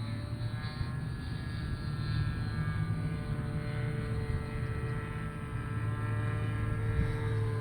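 Radio-controlled model airplane's engine running in flight, its pitch shifting slowly up and down, over a steady low hum.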